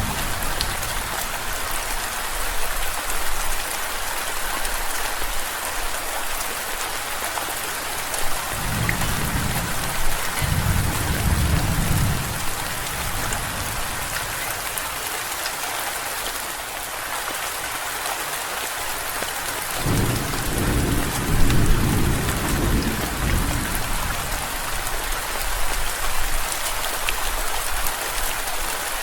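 Steady rain falling, with two low rolls of thunder: one starting about eight seconds in and lasting some three seconds, another starting about twenty seconds in and lasting about as long.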